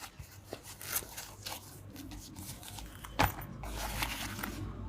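Handling of a travel documents organizer: scattered rustles and light knocks, with one sharp click about three seconds in.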